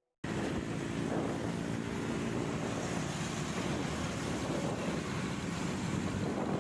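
Wind rushing over the microphone of a moving motorcycle, with the engine running steadily underneath; it cuts in suddenly just after the start.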